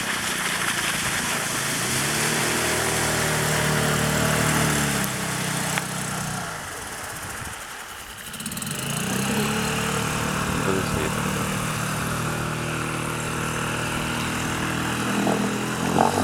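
Suzuki DF5 five-horsepower four-stroke outboard motor running under way. Its pitch and level drop about halfway through, then climb again and hold steady.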